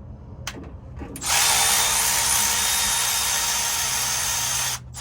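Cordless power driver spinning, most likely backing out a Torx screw on the LS engine: a few light clicks, then a steady whir for about three and a half seconds that stops briefly near the end and starts again.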